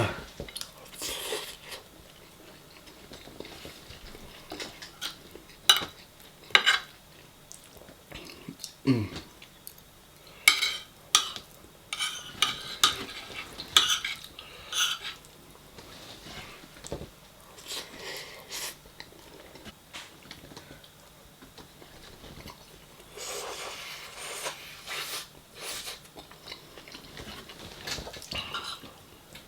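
Cutlery clinking and scraping against a dish of curry, in many short separate clicks, with chewing between them.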